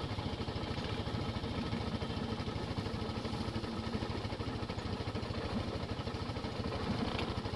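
Polaris RZR side-by-side's engine idling steadily with a fast, even beat. It is kept running while the machine sits stuck in deep creek water, so water is not drawn in through the exhaust to hydrolock it.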